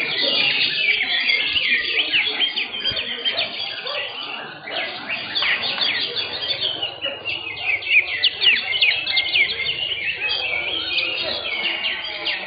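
Several cucak hijau (green leafbirds) singing at once in fast, overlapping chirps, whistles and short trills.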